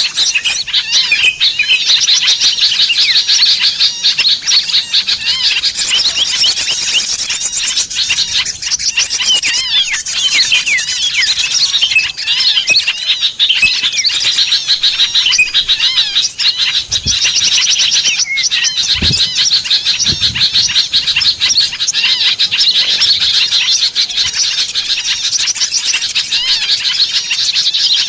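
Dense, continuous chirping and twittering of many small birds, a busy chorus of quick high calls and trills: a bird-lure (pikat) recording made to draw small wild birds in.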